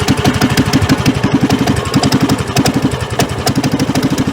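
Boat engine idling with a fast, even chugging beat.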